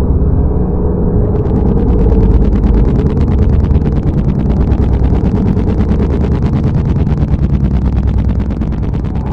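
Loud, deep rumbling, with a fast, even crackle over it from about a second in: the kind of unexplained rumbling noise people record as 'strange sounds' in the sky.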